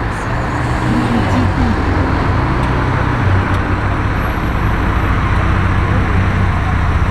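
Car engine running amid steady road traffic noise, with a low engine hum throughout.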